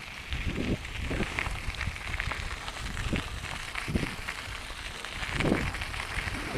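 Mountain bike tyres rolling over gravelly desert dirt, with a dense crackle of small stones and trail grit, under a steady low rumble of wind on the microphone.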